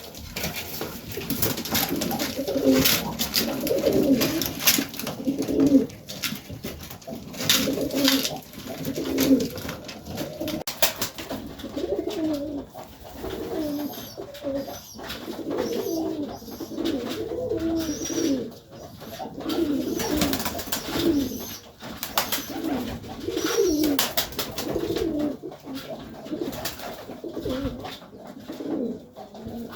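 Serbian highflyer pigeons cooing over and over in a small loft, phrase after phrase, mixed with scattered sharp clicks and taps.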